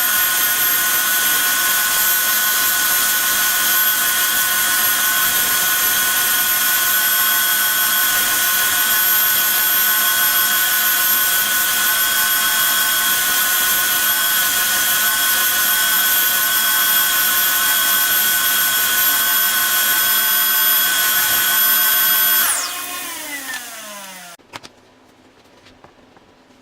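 Woodworking power tool running steadily with a high whine, then switched off near the end and winding down over about two seconds, its pitch falling, followed by a single click.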